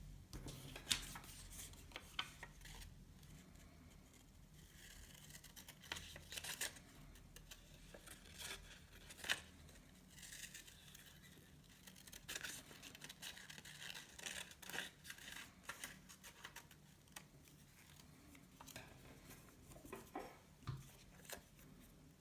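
Faint paper handling: paper rustling and being creased, with scattered sharp snips of paper scissors.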